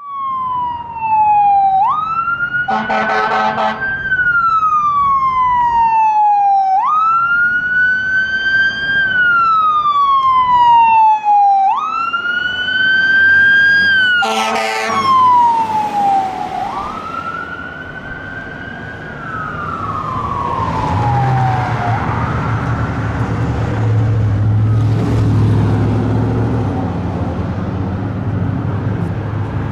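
Fire engine's siren wailing, each cycle jumping up quickly and sliding slowly down, repeating about every five seconds, with two short air horn blasts about 3 and 14 seconds in. The siren fades out about two-thirds of the way through, leaving the truck's low engine rumble.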